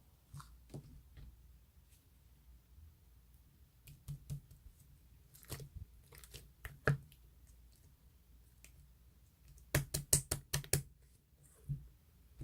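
Scattered sharp clicks and taps, like keys being pressed, with a quick run of about seven clicks in a row late on.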